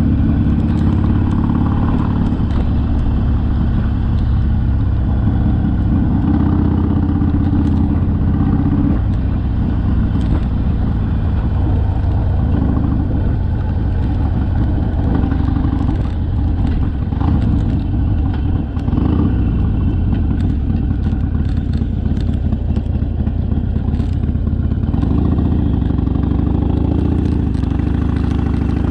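Harley-Davidson Sportster's V-twin engine running under way, its note shifting up and down a few times with changes of speed.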